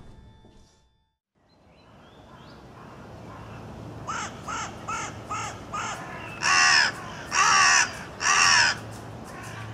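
A bird calling outdoors: a quick run of short calls, then three loud, longer calls about a second apart.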